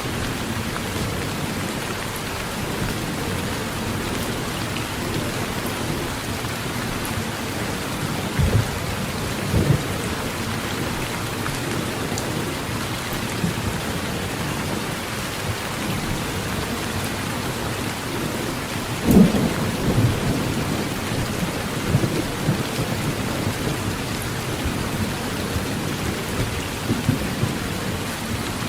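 Steady heavy rain drumming on a tin roof, with low rolls of thunder, the loudest about two-thirds of the way through.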